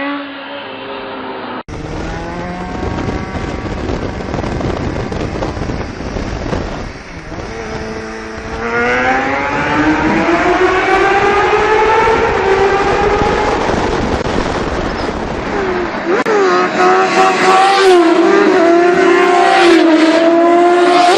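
Sport motorcycle engines revving and accelerating, heard across several short clips joined together. The engine pitch climbs steadily in the middle, then rises and drops in steps near the end.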